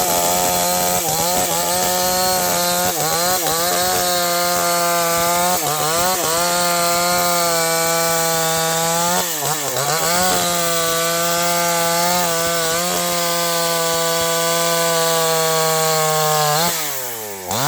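NewWest 628 two-stroke chainsaw running at high revs while cutting sengon wood. Its pitch sags slowly under load and dips briefly about nine seconds in. Near the end it drops off and then revs up again.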